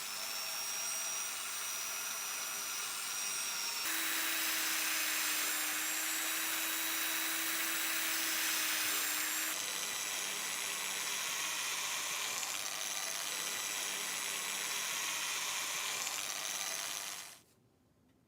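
Drill press running steadily while plunging stitching holes through a thick stack of leather. Its tone and hiss shift twice along the way, and it cuts off suddenly near the end.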